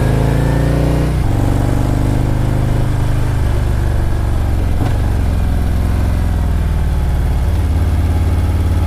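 Motorcycle engine running while riding: the revs climb for about a second, drop sharply at a gear change, then hold fairly steady with small shifts in pitch. A brief click about five seconds in.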